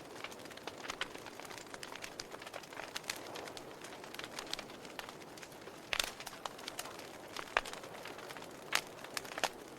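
Wood fire in a fireplace crackling, with irregular sharp pops and snaps over a soft steady rush of flame; the loudest snaps come about six seconds in and a few more toward the end.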